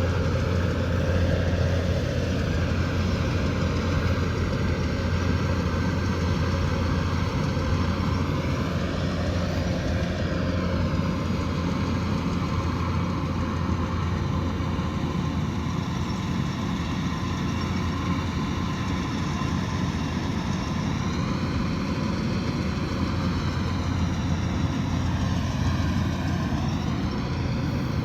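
Kubota DC108X combine harvester running steadily: a deep, even diesel engine drone with the machine's mechanical hum over it.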